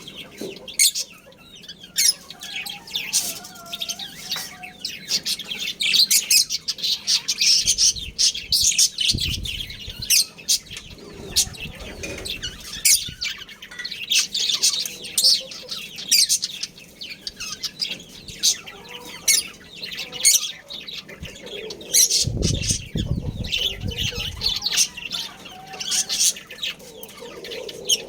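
Budgerigars chirping and chattering without pause: a dense stream of rapid high chirps and clicks. Two short low rumbles come through, about eight and twenty-two seconds in.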